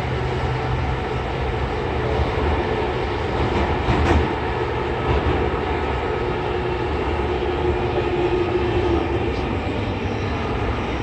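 Running sound inside a JR East E231 series 800-subseries commuter train in a subway tunnel: a steady wheel-and-rail rumble as the train nears its next station. A single sharp clack comes about four seconds in, and a faint steady tone is heard for a few seconds midway.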